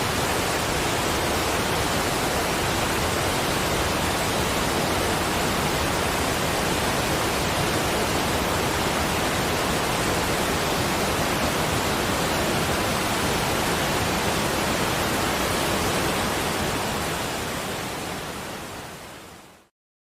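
Steady, even rushing hiss from a sleep-sound recording, with no distinct drops, splashes or tones, fading out over the last few seconds to silence.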